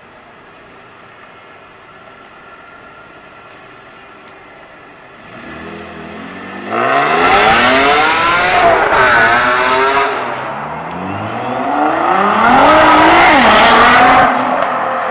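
A car engine revving hard as the car drives off. It is quiet at first, then climbs in pitch and turns loud about seven seconds in, and rises and falls again in a second loud burst before easing off near the end.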